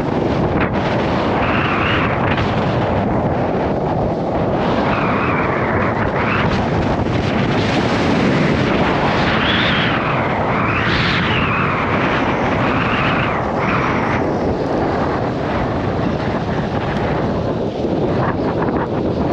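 Gale-force wind buffeting the microphone: a loud, continuous rumble that swells in gusts every few seconds and eases off again.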